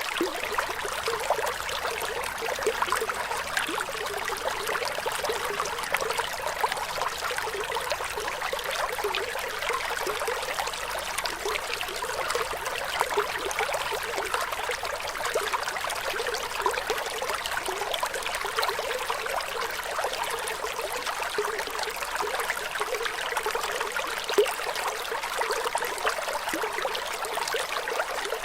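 Running water in a small stream trickling and splashing steadily, a dense patter of small splashes with little low rumble.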